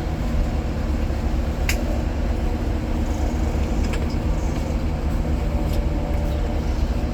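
Steady low rumble and engine drone inside the cabin of a Scania K410IB coach under way, with a sharp click about two seconds in and a few faint ticks later.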